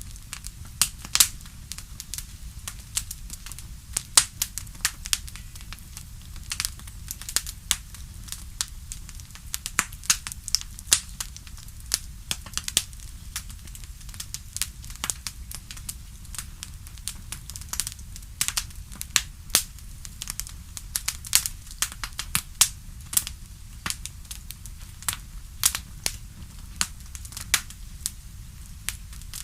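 Wood fire crackling: frequent irregular sharp pops and snaps, some much louder than others, over a low steady rumble.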